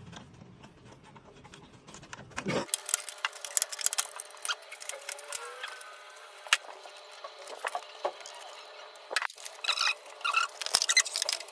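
Irregular clicks, knocks and scraping from taking apart a split air conditioner's indoor unit as its blower fan and motor are worked loose and pulled out, with a few faint squeaks.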